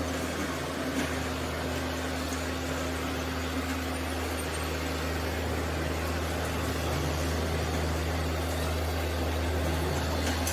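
Steady low engine hum from construction machinery running at an even speed, with no clear knocks or changes.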